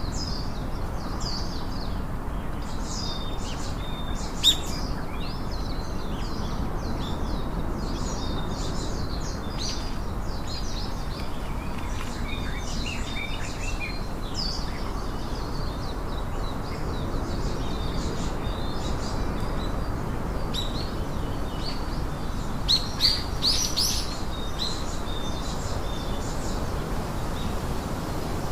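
Several songbirds chirping and calling in quick, short notes over a steady low background hiss, with a brief loud cluster of calls near the end.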